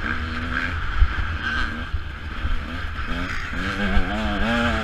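Motocross bike engine being ridden, its pitch rising and falling with the throttle and wavering quickly in the second half, over low wind rumble and a couple of sharp knocks.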